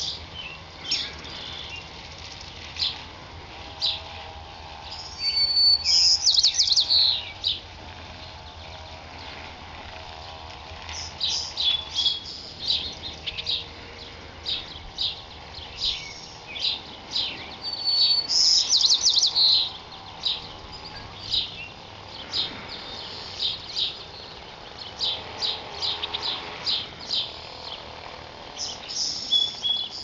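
Songbirds chirping and singing: a steady run of short, high chirps, with a louder trilled song phrase about six seconds in and again about twelve seconds later.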